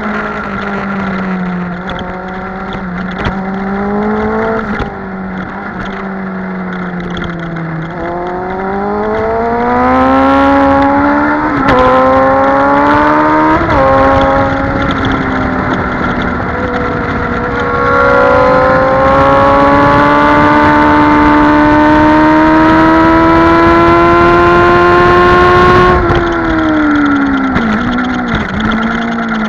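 Sport motorcycle engine heard from onboard, under hard acceleration on a race track: the revs climb, drop sharply at two quick upshifts around the middle, then pull in one long rising run before falling away under braking, with short downshift blips near the end.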